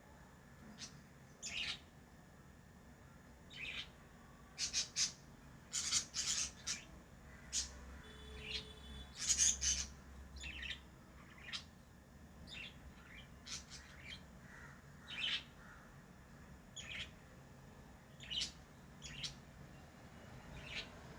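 Pet lovebirds chirping: short, sharp, high-pitched chirps at irregular intervals, with one longer call about eight seconds in.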